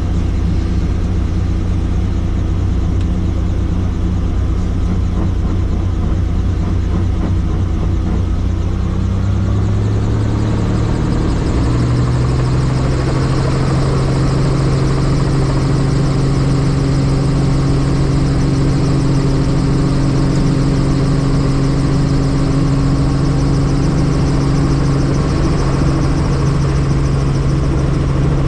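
Helicopter engine and rotor running steadily; about ten seconds in the pitch rises and the sound grows brighter, then holds at the higher, steady pitch.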